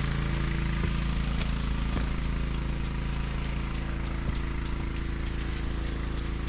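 Small engine-driven water pump running steadily at a constant speed, feeding a line of lawn sprinklers. Light, regular ticking sounds over it.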